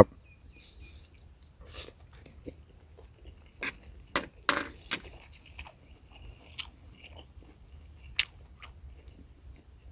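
Kitchen knife slicing beef shank thinly on a cutting board: irregular soft knocks and taps, a few sharper ones around the middle. A steady high insect chirring runs behind.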